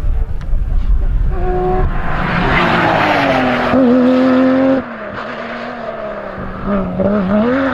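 Porsche rally car's engine at full throttle, its note climbing steadily, then the revs and level drop sharply about five seconds in as the driver lifts, before it climbs again near the end.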